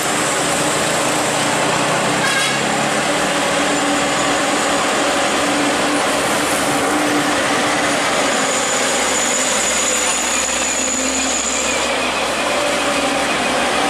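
Truck engines running as trucks pass on the road, a dense, steady traffic noise.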